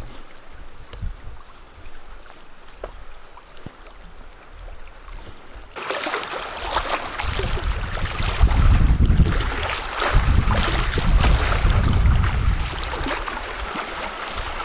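Wind buffeting the microphone, with a rough crackling noise. It turns suddenly much louder about six seconds in and then comes in gusts.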